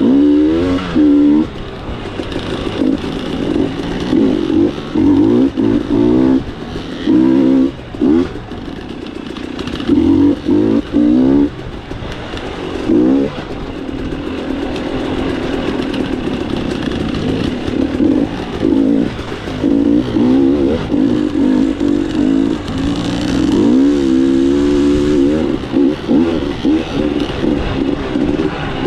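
Dirt bike engine revving in repeated throttle bursts, its pitch climbing and dropping again and again as it works along a trail.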